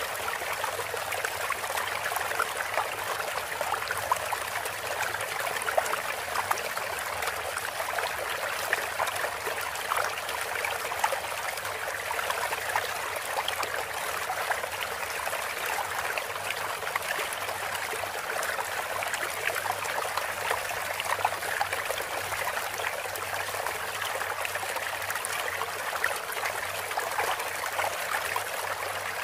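Running water trickling and splashing steadily, a water-sound track played as a calming pause between canary song.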